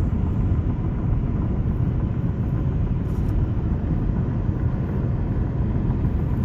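Steady low vehicle rumble with no clear changes, strongest in the low range.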